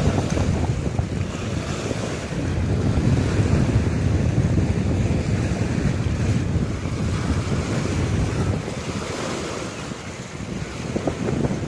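Waves on a dam reservoir washing in under a strong wind, the wind buffeting the microphone in low, uneven gusts.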